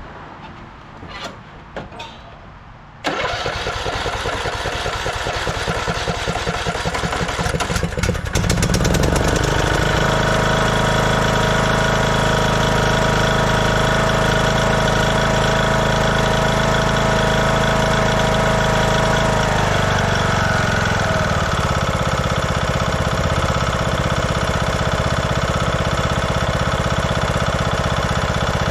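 A 2014 Craftsman T1600 lawn tractor's Briggs & Stratton engine is cranked by its electric starter for about five seconds, then catches and runs up to a steady speed. About two-thirds of the way through, the engine speed drops and holds steady at a lower pitch. A few light clicks come before the cranking starts.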